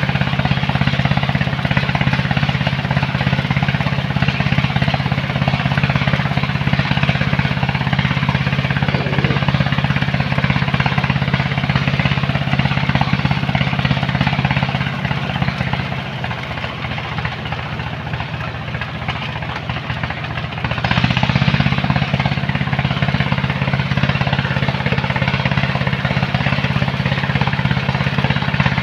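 Heavy diesel engine of sand-loading machinery running hard and steadily. It eases off for several seconds past the middle, then picks up again.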